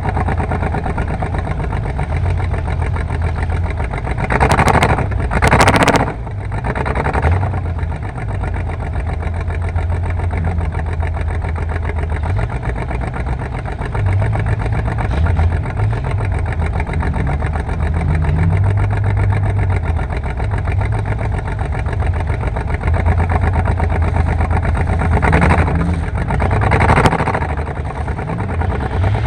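Car engine running near idle, its low hum shifting up and down in steps, with a few short louder bursts about four to six seconds in and again near the end.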